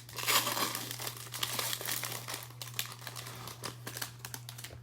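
Plastic wrapper of a trading-card pack crinkling as it is torn open by hand, loudest in the first second, with a steady low electrical hum underneath.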